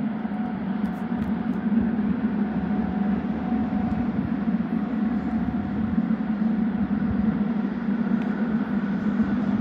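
Train approaching along the line, not yet passing: a steady low hum and rumble that has grown louder just before and now holds at an even level.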